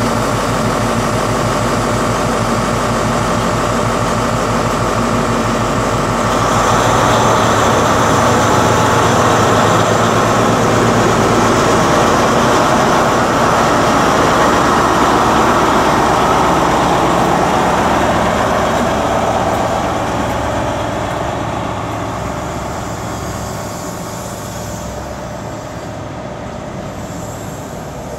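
Class 43 HST power car's MTU diesel engine powering up as the train pulls away. It grows louder about six seconds in, holds steady, then fades as the train moves off.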